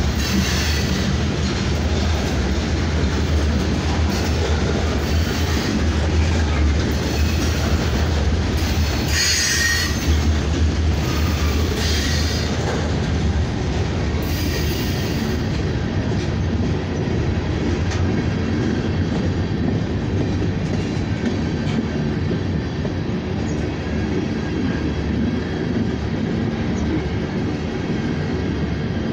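Freight train of covered hopper cars rolling past at close range: a steady deep rolling noise of steel wheels on rail, with a few short high squeals from the wheels about a third of the way in.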